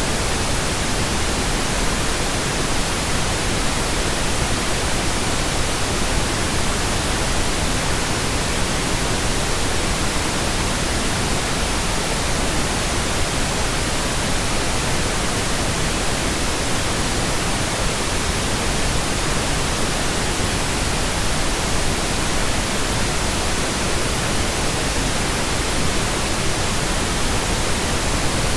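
Steady synthetic pink noise, an even unchanging hiss spread across all pitches, generated digitally in Audacity.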